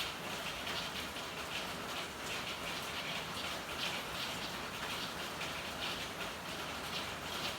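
Steady rain falling in an alley, an even hiss with irregular drips and splashes on hard surfaces.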